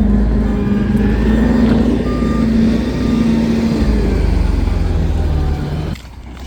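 Garbage truck's diesel engine running loud and low, with a steady hum over the rumble; the sound drops away sharply about six seconds in.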